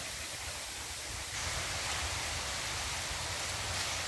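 Steady outdoor background hiss with no distinct events. It grows slightly louder about a second in.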